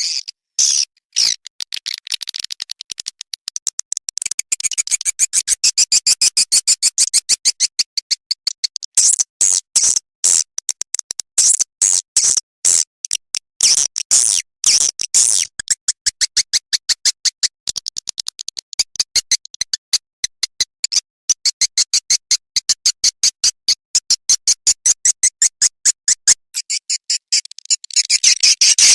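Recorded edible-nest swiftlet calls: dense trains of rapid, high-pitched clicking twitters, with a brief pause near the end before a dense burst. This is a lure call played in swiftlet houses to draw the birds in to roost and nest.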